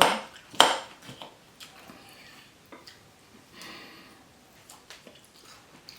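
Cutlery knocking against a dish: two sharp clinks close together, then a few faint taps and a soft rustle as a salad is mixed and forked up.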